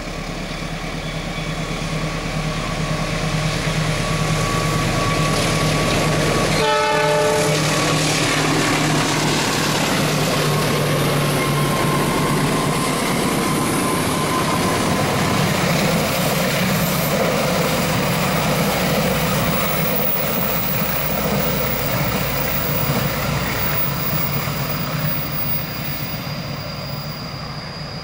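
A train passing a level crossing. Its running noise builds over the first few seconds, with one short horn blast about seven seconds in. Then the steady rumble and clatter of the cars going by, fading away over the last several seconds.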